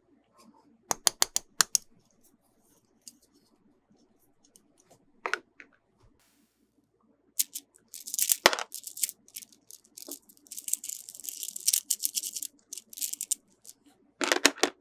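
Toy packaging being handled and opened: clusters of sharp clicks and snaps, with stretches of crinkly plastic rustling in the middle.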